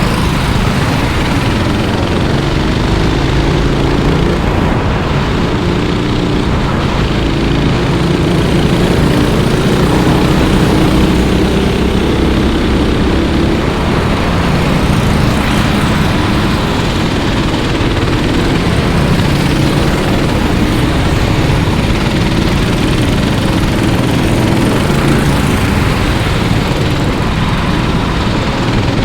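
Racing kart engines running on the circuit, their pitch rising and falling as they accelerate, brake and pass, without a break.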